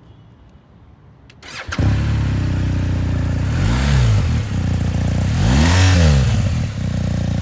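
2022 BMW R1250RT's 1254 cc boxer twin starting about a second and a half in, settling to idle, then revved briefly twice.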